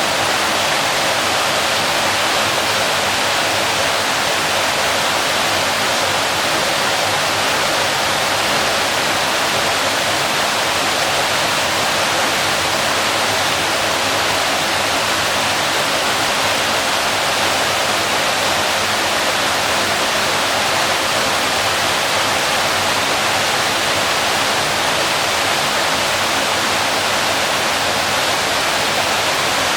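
Waterfall: water falling and splashing in a steady, even rush with no change in level.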